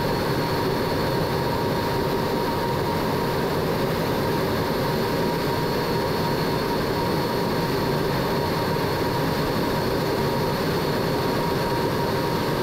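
Steady jet cockpit noise in a MiG-17 in flight: the turbojet engine and rushing air, with a thin steady whine over it.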